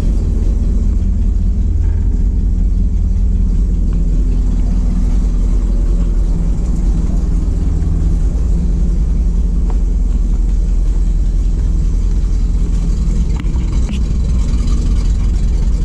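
Ford F700's 370 four-barrel V8 gasoline engine running steadily at idle, turning the PTO hydraulic pump. At this low RPM the pump runs too slowly to drive the spreader's web chain.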